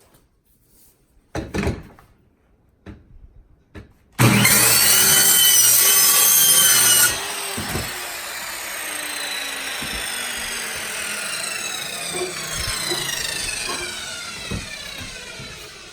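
A power saw starts about four seconds in and runs loud for about three seconds, cutting. Then the trigger is released and the motor winds down slowly, its whine falling in pitch to the end. A few knocks come before it.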